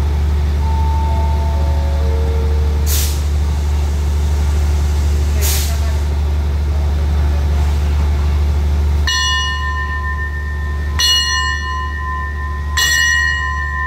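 Diesel locomotive of a passenger train idling at a platform with a steady low hum. A falling four-note chime sounds just after the start, and two short air hisses follow, typical of air brakes. Near the end a bell is struck three times about two seconds apart, each strike ringing on, as the departure signal while the flagman holds out the green flag.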